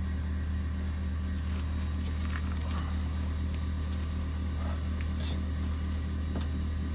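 A steady low mechanical drone with a slight pulse, running evenly throughout, with a few faint clicks and taps over it.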